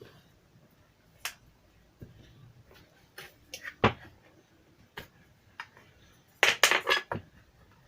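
Scattered clicks and taps of small hard parts and tools being handled while a portable Bluetooth speaker is taken apart, with a quick cluster of louder clicks near the end.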